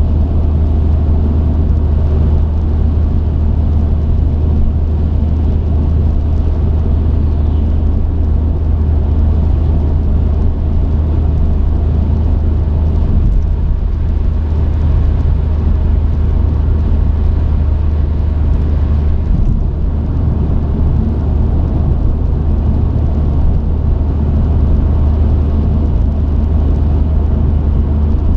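Steady low drone of a truck's engine and tyres on the road, heard from inside the cab while driving at a constant pace.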